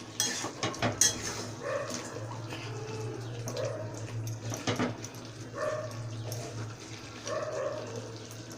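Spatula scraping and knocking in a pan as chicken is stirred and fried in its masala. A steady low hum runs underneath, and four short pitched sounds repeat in the background about every second and a half.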